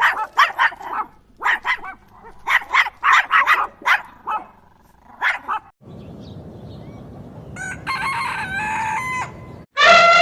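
Chickens calling: a run of short, quick calls for the first half, then a rooster crowing with a stepped pitch near the end. A loud, long, steady-pitched animal call begins just before the end.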